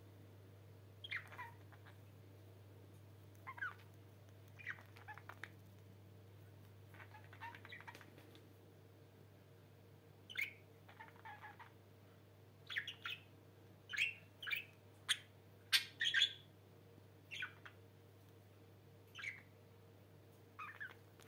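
Pet budgerigars chirping in short, scattered calls, many falling in pitch, bunched more closely in the middle. A steady low hum sits underneath.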